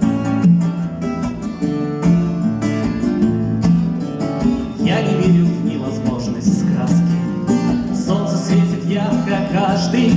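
Guitar music: an instrumental song introduction on plucked acoustic guitar with a steady rhythm.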